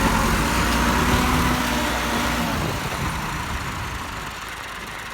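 Tractor engine running with a steady low drone that fades away about halfway through, leaving a quieter, even noise.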